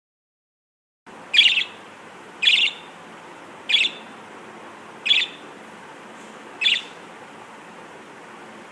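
A budgerigar calling five times in short, sharp, high calls a little over a second apart. A steady hiss begins about a second in.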